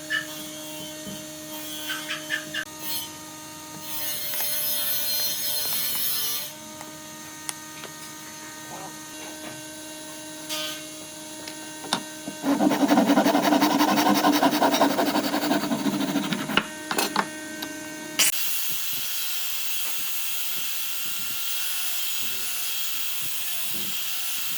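Electric power tool working wood: a motor hums steadily, with two louder stretches of the tool biting into the wood, the longer one about halfway through. About three quarters of the way in, a different, higher steady machine noise takes over.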